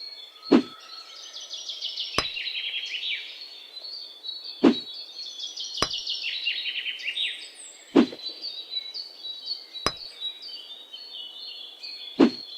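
Birds singing in fast, descending trilled phrases, with a knock about every two seconds that alternates between a sharp click and a duller thud.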